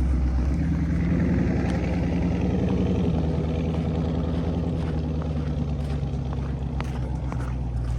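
Dodge Scat Pack's V8 engine running steadily at a low, even pitch, easing slightly in level towards the end.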